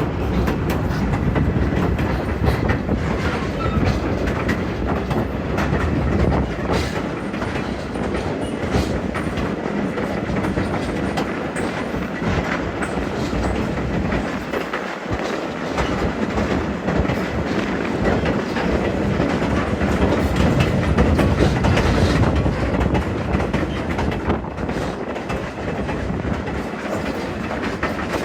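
A train rolling along the track with a steady rumble, with scattered clicks from the wheels on the rails.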